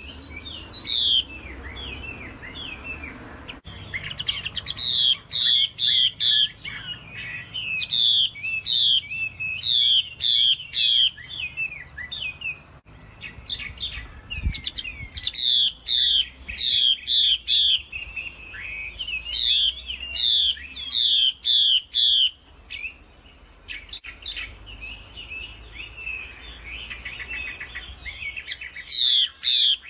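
Chinese hwamei (melodious laughingthrush) singing: loud phrases of sharp downward-slurred whistles, three or four in quick succession, repeated again and again with softer twittering and warbling between them.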